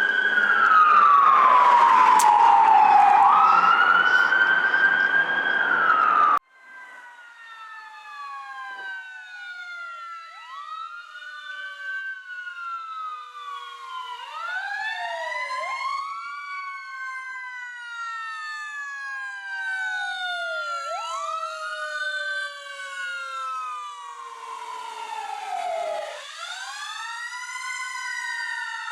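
Fire engine and rescue ambulance sirens. A loud, close siren with heavy vehicle noise falls and then rises in pitch for about six seconds, then cuts off suddenly. After that, several more distant sirens wail together, their pitches rising and falling out of step with one another.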